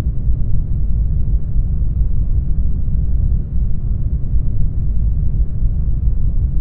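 Brown noise: a steady, deep rumbling hiss with most of its energy in the low bass, fading off toward the treble.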